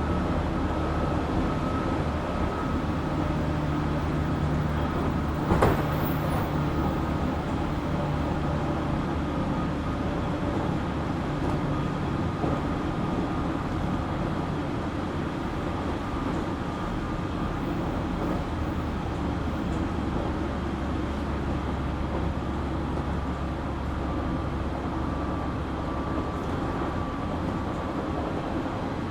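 JR Kyushu 817 series electric train running, heard from inside the car: a steady rumble of wheels on rail with a faint steady whine from the drive. This unit is known for an unusual running sound likened to the Keio 7000 series. One sharp click about six seconds in.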